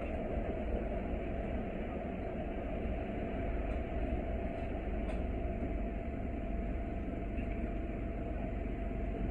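Bus engine and road noise heard from inside the cabin while riding: a steady low rumble with a faint constant hum.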